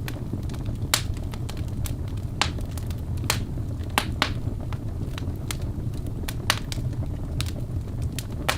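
Wood logs burning in a fireplace: a steady low rumble of flame with irregular sharp crackles and pops, a few of them louder snaps.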